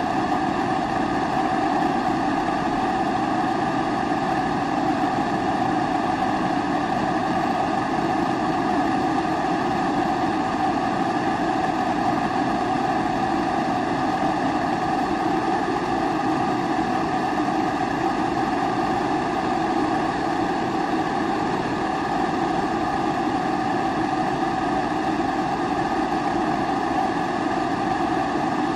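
Pressurised kerosene (Primus-type) stove burner running steadily: an even rushing noise with a steady hum in it.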